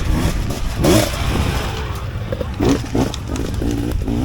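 Off-road motorcycle engines running and revving under the chatter of spectators, with a louder burst about a second in.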